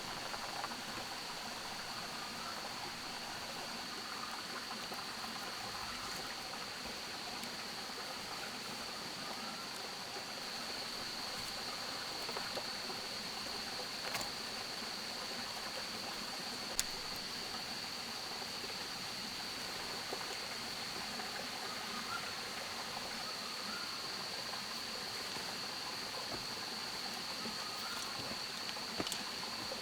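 Rainforest ambience: a constant rushing of flowing water under a steady high-pitched insect drone, with a few sharp clicks or snaps.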